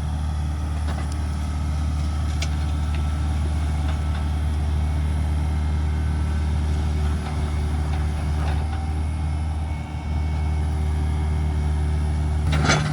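Heavy diesel engine of earth-moving equipment running steadily at a low, even pitch, with scattered light clicks and a short clatter near the end.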